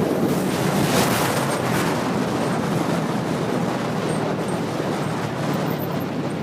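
Motorcycle on the move: steady engine, road and wind noise, with a brief louder gust of wind about a second in.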